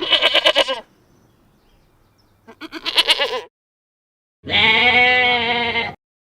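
A sheep bleating three times: two short, quavering bleats, then a longer, steadier one near the end.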